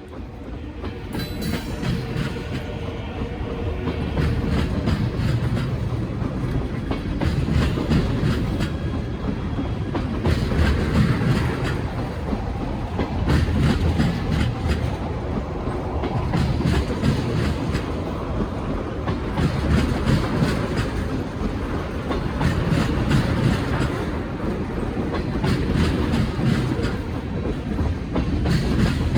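Freight cars of a slow-moving freight train rolling past with a steady low rumble and wheels clacking in a rhythm that swells every two to three seconds. It gets louder over the first few seconds.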